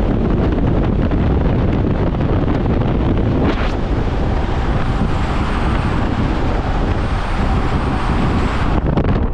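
Steady road noise of a moving car, with wind buffeting the microphone.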